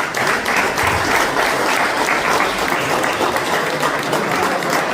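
Crowd applauding and clapping for an award winner just announced.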